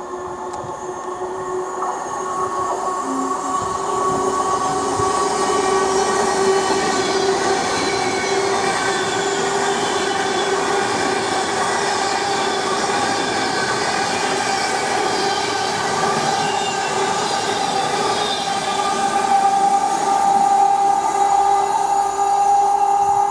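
Train running past on the line, its sound building over the first few seconds and then holding, with steady high whining tones over the running noise.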